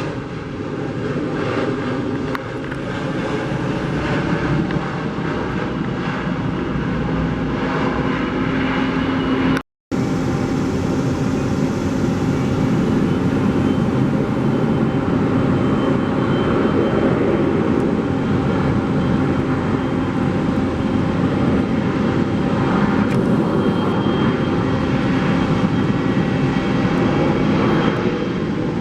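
Jet airliner engine noise, loud and steady. It cuts out for an instant about ten seconds in, then continues with a steady low tone added.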